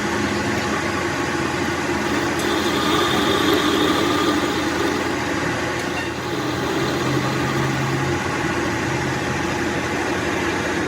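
Workshop machine running steadily: a continuous hum over a hiss, the hum's pitch shifting a little partway through.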